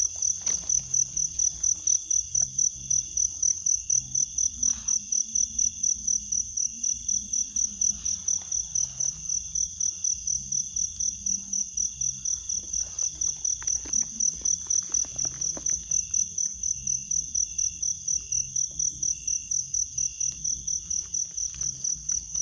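An insect calling: a high-pitched trill pulsing evenly at about three to four pulses a second, with fainter steady insect tones beneath it.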